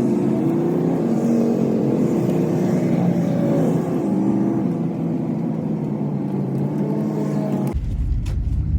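GMC camper van's engine running while driving, its pitch rising and falling as the revs change. Near the end the sound changes abruptly to a deep low rumble.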